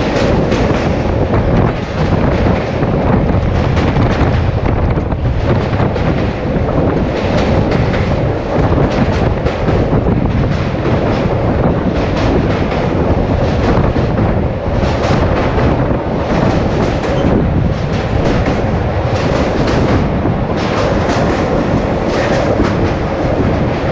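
Express passenger train running at speed across a river bridge, heard from the coach's window: a steady rumble of wheels on rails with continual rapid clickety-clack from the rail joints.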